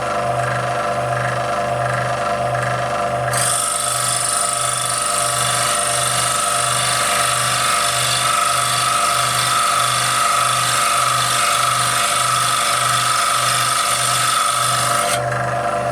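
Scroll saw running with a regular low throb, its fine blade cutting 3 mm brass plate. About three seconds in the blade bites into the brass, adding a steady high-pitched rasping whine that stops shortly before the end while the saw keeps running.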